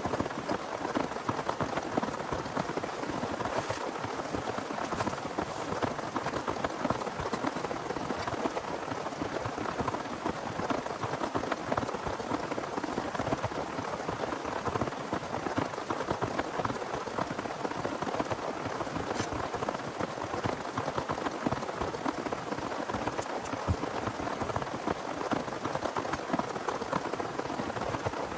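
Heavy rain falling steadily on a surface, a dense even stream of drop hits.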